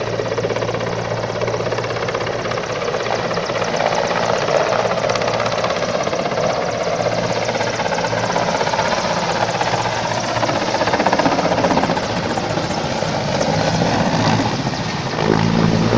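Helicopter turbine and rotor running loud and steady, the blades chopping rapidly. Near the end the low hum grows stronger.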